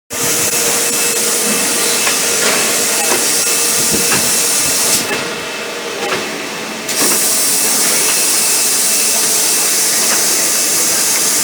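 Robotic ultrasonic welding machine running: a steady high-pitched hiss over a faint hum, which drops away for about two seconds midway and then resumes.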